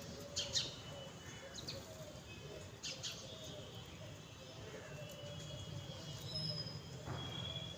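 Sparrows chirping: a few short, sharp chirps with thinner high notes between them, over a low steady hum.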